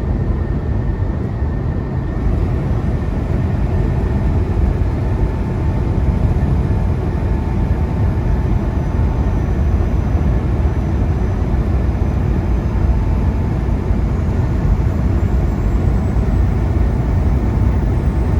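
Semi truck cruising at highway speed, heard from inside the cab: a steady low rumble of diesel engine and road noise.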